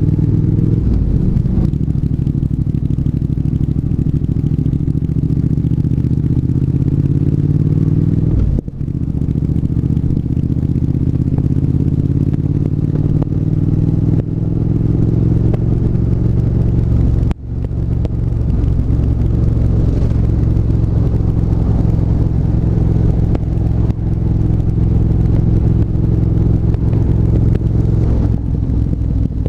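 Triumph 1200 cc parallel-twin motorcycle engine pulling on the road, its pitch climbing slowly, with two brief breaks for gear changes, about a third and about three fifths of the way in.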